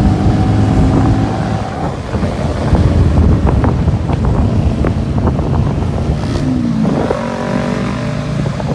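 Motorcycle engines fitted with aftermarket exhausts, running loud on the move, with wind buffeting the microphone. The engine note drops about six and a half seconds in, then climbs again as a bike accelerates.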